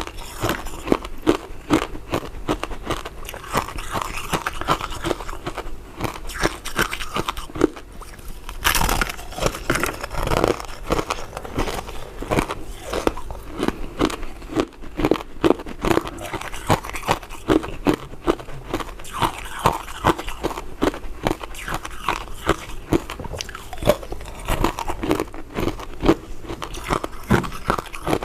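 Powder-coated mint sweets being bitten and chewed, a steady run of short sharp mouth clicks about once or twice a second.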